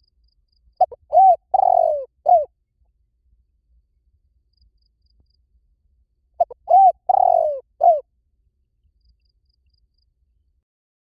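Spotted dove cooing: two phrases about five and a half seconds apart, each a couple of short coos, then a longer note that falls in pitch, then one short closing coo.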